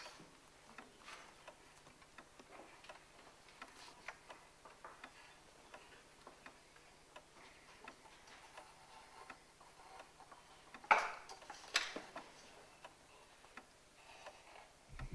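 Faint clock ticking at a steady pace, with two louder sharp clicks about eleven and twelve seconds in.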